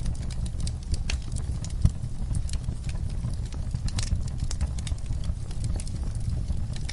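Wood fire crackling in a fireplace: irregular sharp pops and snaps over a steady low rumble of flames, with one louder pop about two seconds in.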